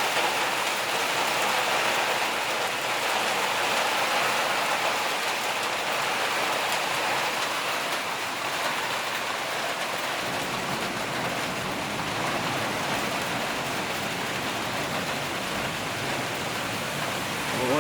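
Storm rain falling steadily in a continuous downpour.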